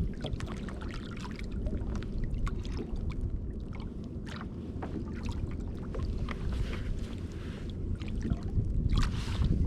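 Sea water lapping and sloshing against a kayak's hull under a steady low rumble, with scattered small clicks and knocks, and a louder splash near the end.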